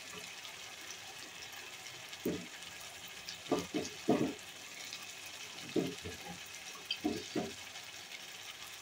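Spiced onion-tomato masala with cauliflower florets sizzling in a kadai, a steady soft hiss. A few short knocks and scrapes of the spatula come in small clusters about two, four, six and seven seconds in.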